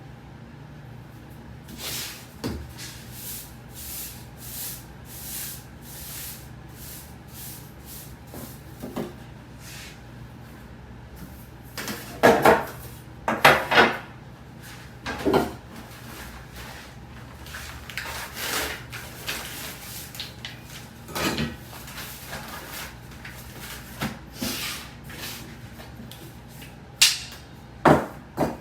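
Wooden tools knocking and tapping on a wooden soba-making board, a run of fairly even taps at first, then a few louder separate knocks.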